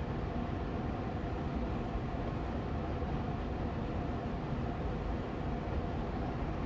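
Austin Air Allergy Machine air purifier fan running steadily on medium speed: an even, low-pitched whoosh with a faint steady hum in it.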